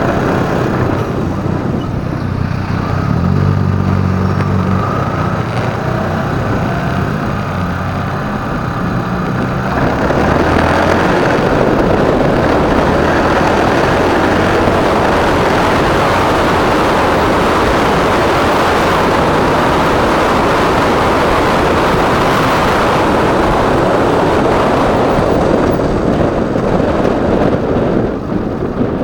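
Motorcycle engine running at low speed with a steady low note for about ten seconds. Then a broad, steady rush of wind and engine noise as the bike rides on faster, easing off near the end.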